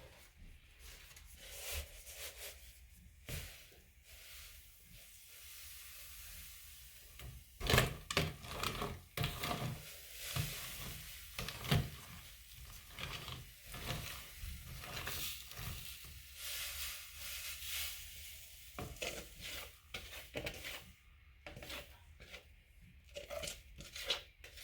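Faint kitchen handling noises: irregular clinks, taps and scrapes of utensils and containers, a few at first, then frequent from about a third of the way in.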